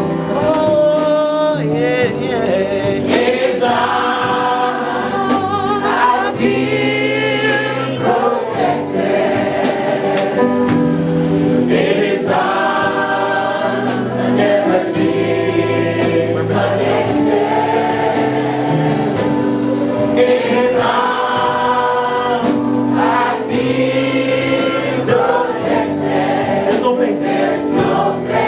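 Gospel worship music: a choir singing slow phrases over instrumental backing with long-held low notes.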